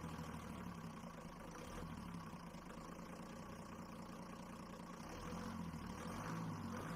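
A vehicle engine idling steadily, growing slightly louder near the end.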